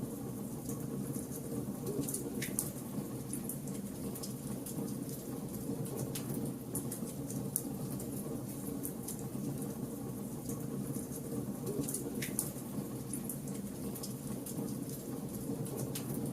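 Wood fire burning in a fireplace: a steady low rush of flames with scattered sharp crackles and pops from the burning logs, two louder pops about two seconds in and again near twelve seconds.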